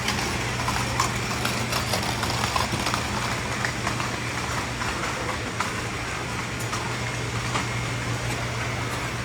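Busy night-market ambience: a steady low hum under general noise, with scattered clicks and clatter.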